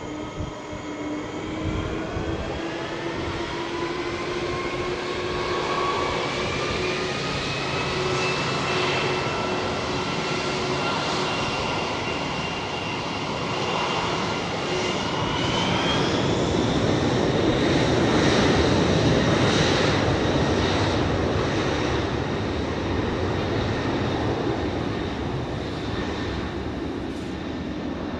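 Boeing 747-400F's four jet engines at takeoff power: a loud engine roar with a whine that rises in pitch over the first half, loudest a little past halfway, then easing off.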